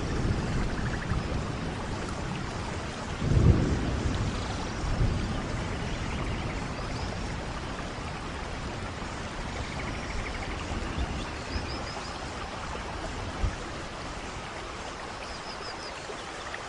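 Steady rainfall, with a brief low rumble of thunder about three and a half seconds in.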